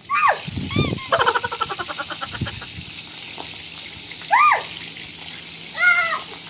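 Shrimp sizzling in hot oil in woks, a steady hiss. Over it come several short whistling chirps that rise and fall in pitch, with a quick run of repeated pulses early on.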